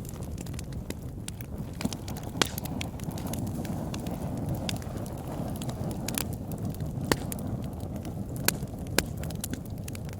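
Wood fire burning in a fireplace: a steady low rumble of flames with frequent crackles and sharp pops, a few louder pops scattered through.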